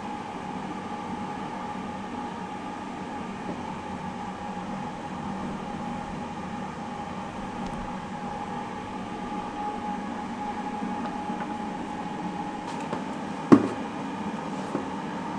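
A steady mechanical hum with a constant tone, and a single sharp knock near the end.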